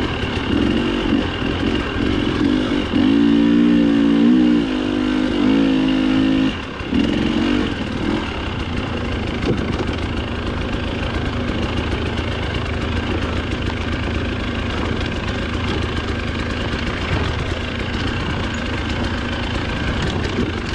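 Dirt bike engine running under varying throttle, with a strong held rev from about three to six and a half seconds in, then the throttle drops off and it runs on at a lower, uneven level.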